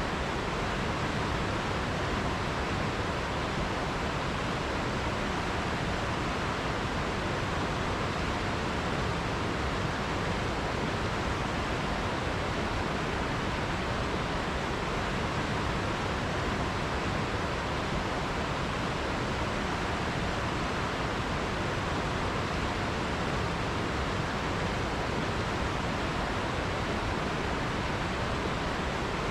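Forest river flowing: a steady, even rush of water with no breaks or separate sounds.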